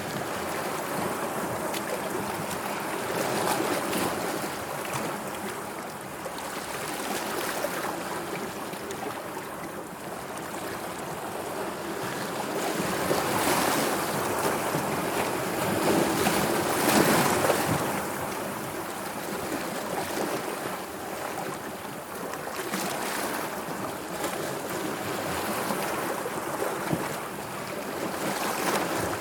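Sea waves washing in, swelling and easing every few seconds, with the biggest surge about halfway through.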